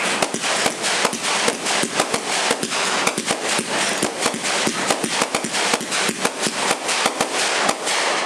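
Fireworks going off in a dense, continuous barrage of rapid sharp pops and cracks, many a second, that stops abruptly at the end.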